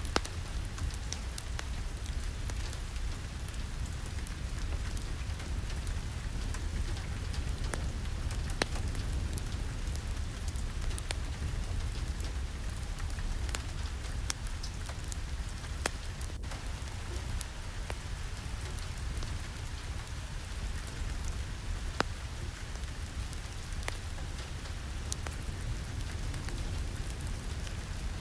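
Steady rain falling, with a low rumble underneath and many scattered sharp ticks throughout.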